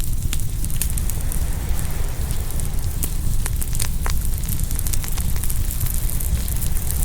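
Open wood fire crackling and popping, with a sharper pop about four seconds in, over a steady low rumble.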